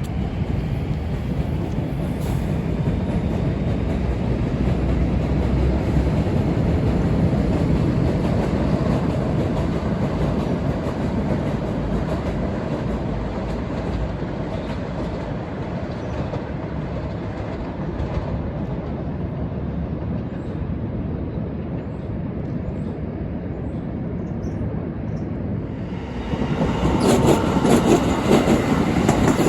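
A train running past on the rails: a steady rumble of wheels and cars, then louder wheel clatter over the rail joints in the last few seconds.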